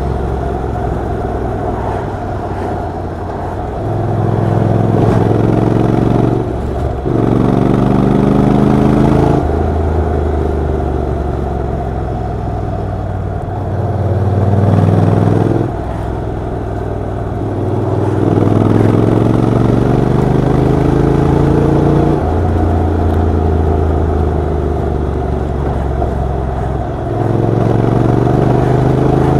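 Honda NC750X DCT motorcycle's parallel-twin engine and exhaust while riding. Several times the engine pitch climbs under acceleration and then drops at a gearshift, with steadier stretches of running in between.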